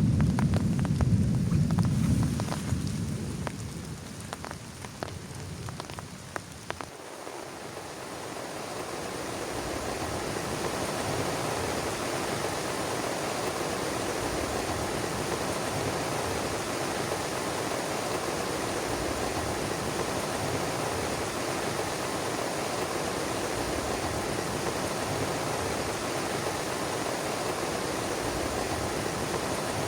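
Low rumble of thunder fading away over the first few seconds, with scattered drops tapping. From about eight seconds in, heavy rain falls steadily.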